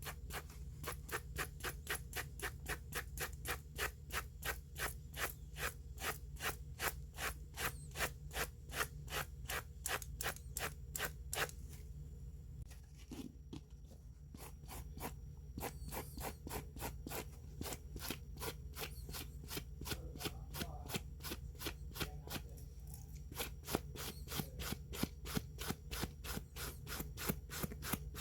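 A watch part being rubbed by hand in short, even strokes in one direction, about three strokes a second, with a brief pause partway through.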